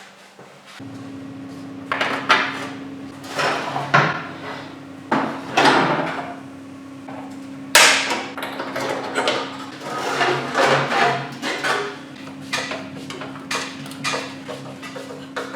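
Workshop tool sounds while taking a pocket bike apart: repeated sharp knocks and clanks of tools and parts, over a steady low hum.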